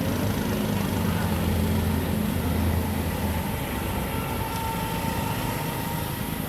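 A motor engine's low, steady hum that fades away about three and a half seconds in.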